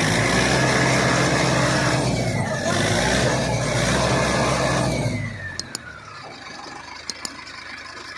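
Tractor diesel engine revving hard under load during a pull to free a tractor stuck in mud, then dropping back to a lower, quieter run about five seconds in.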